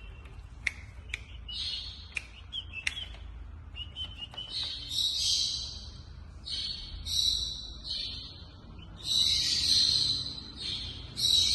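Cockatiel giving repeated harsh chirps and screeches in short bursts, louder in the second half. A few sharp clicks come in the first few seconds.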